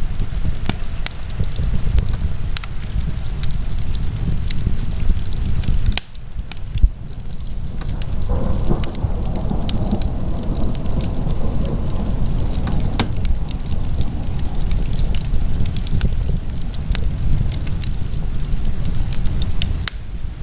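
Wood fire in a fireplace crackling, with many sharp pops and snaps over a low steady rumble of the flames. The sound dips briefly about six seconds in, followed by one louder pop.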